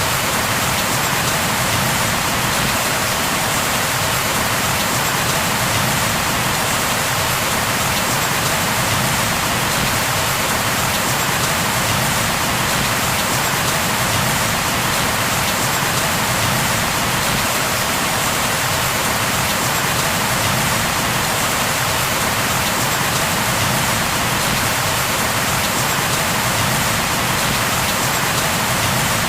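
Steady rain falling on a surface.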